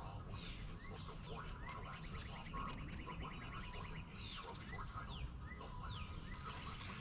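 Several birds chirping with short rising and falling calls, and one rapid trill of about a second and a half near the middle. A steady low rumble runs underneath.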